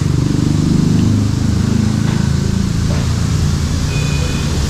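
Ducati Panigale 959 superbike's V-twin engine running steadily while riding, with wind and road noise.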